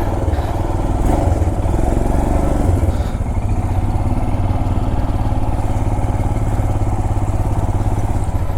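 Motorcycle engine running at a steady low, pulsing note while riding slowly up a steep, rough forest trail.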